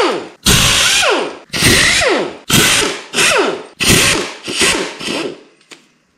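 Handheld power tool run in about six short bursts, roughly one a second, each with a whine that drops in pitch, while fasteners are being taken off an engine during teardown.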